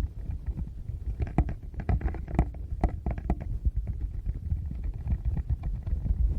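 Fingers touching and rubbing directly on a Tascam recorder's microphones, giving close low rumbling thumps with a run of sharper taps and clicks from about a second and a half to three and a half seconds in.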